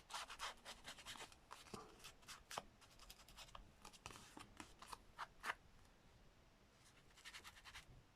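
Faint paper-crafting sounds: a pen or tool scratching and rubbing on paper, with scattered short strokes and light clicks, dying down for a moment a little after the middle.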